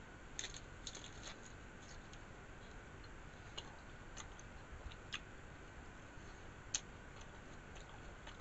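Chewing a mouthful of taco: faint, scattered soft clicks and crunches, a few close together at first and then single ones every second or so.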